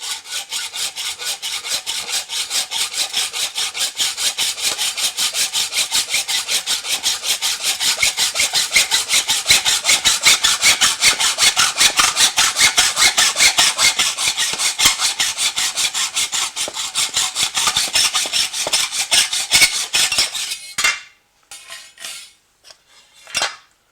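Hacksaw cutting through an aluminium stair nosing held in a mitre block, in rapid, even back-and-forth strokes. The sawing stops about 21 s in, followed by a few short knocks.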